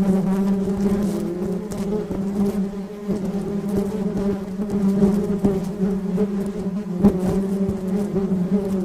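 Flying insect's wings buzzing in a steady, low hum that wavers slightly in pitch.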